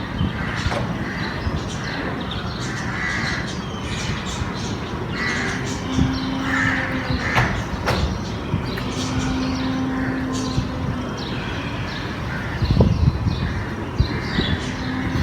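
Crows cawing over and over against a steady background rumble. A low, steady droning tone comes in twice near the middle.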